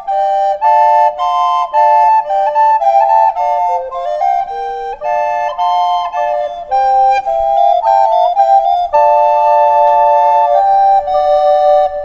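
Recorders playing a slow melody in harmony, two or three parts sounding together. Short notes change steadily, then a chord is held for a couple of seconds about nine seconds in.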